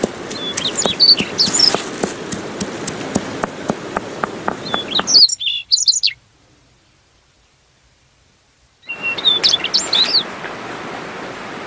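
Small birds chirping in short, sliding calls over a run of sharp clicks. The sound cuts out almost completely for about three and a half seconds in the middle, then the chirping comes back.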